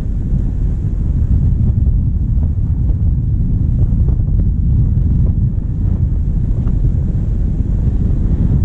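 Steady low rumble of a diesel vehicle driving, heard through a bonnet-mounted GoPro, with heavy wind buffeting on the microphone.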